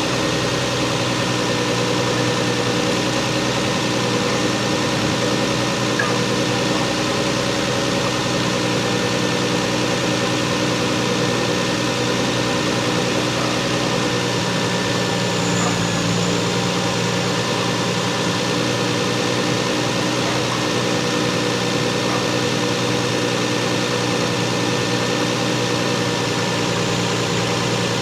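Stock Lexus GS300's 2JZ inline-six idling steadily.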